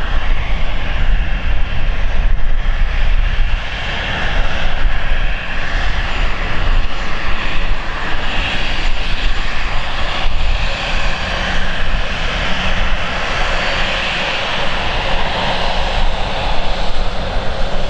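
Engines of a British Airways CityFlyer Embraer jet running loud and steady, their hiss growing stronger over the last few seconds.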